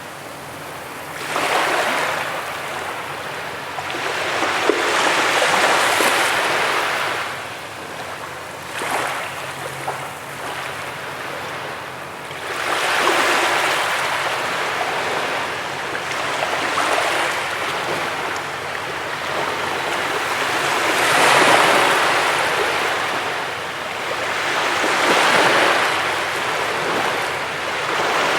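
Ocean surf on a beach: waves breaking and washing in, swelling and falling back about every four seconds.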